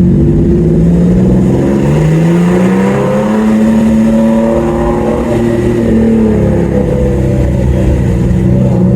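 Car engine accelerating loudly through a tunnel: its pitch climbs over the first few seconds, holds, drops about six seconds in, then runs on steady.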